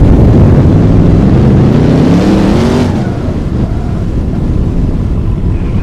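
A car engine revving up over a heavy low rumble. Its pitch climbs for about two seconds, then drops away about three seconds in, leaving the lower rumble.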